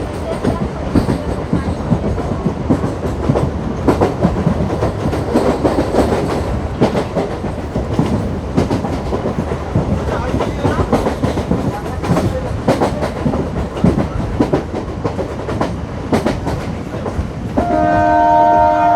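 Moving MEMU electric commuter train: the rumble of the coach and wheels clattering over rail joints, with many quick clicks. About a second and a half before the end, the train's horn sounds, a steady multi-tone blast that carries on past the end.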